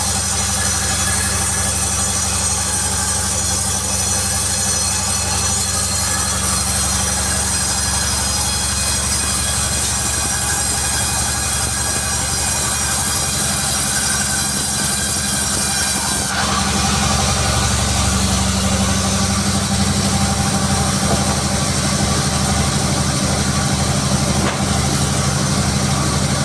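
Sawmill machinery running: a steady low machine drone under a high whine. About sixteen seconds in, the whine stops suddenly and the drone changes pitch.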